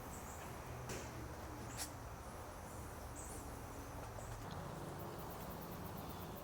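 Faint outdoor ambience: a brief high chirp a few seconds in and a quick high ticking trill near the end, like small birds or insects, with two light clicks early on.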